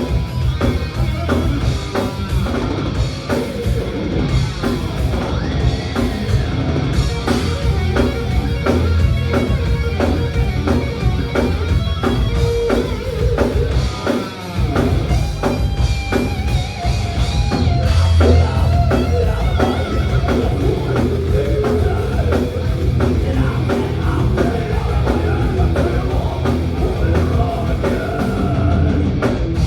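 Live thrash metal: distorted electric guitars, bass and a fast drum kit playing loudly, with a brief drop about halfway through.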